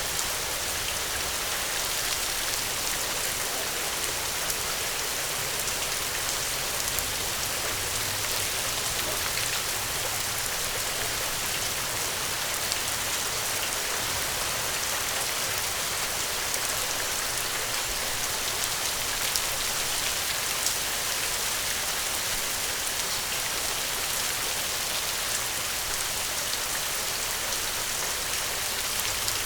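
Steady rain pattering, with a few faint sharp ticks scattered over it. No thunder.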